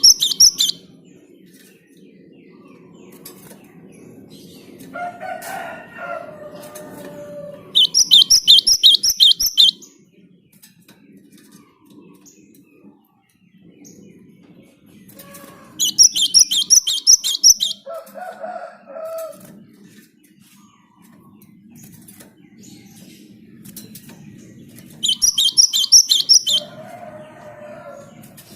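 Gelatik (Java sparrow) singing in loud bursts of rapid, high repeated notes, each lasting a second or two. The bursts come four times, about eight seconds apart. Between them a fainter, lower call from another bird is heard.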